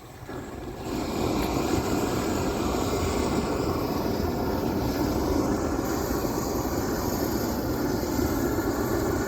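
Gas torch burner running with a steady, loud rushing roar, the flame used to melt Isogam bitumen waterproofing membrane onto a roof. It builds up over the first second and then holds even.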